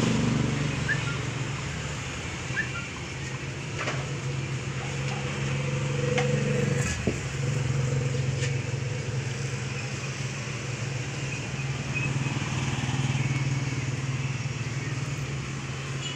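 Small motorcycle engine idling steadily, with a brief dip about seven seconds in.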